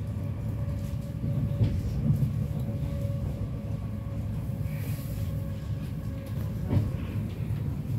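Electric commuter train running at speed, heard from inside the passenger car: a steady low rumble with a steady hum above it, and three short knocks, the last near the end.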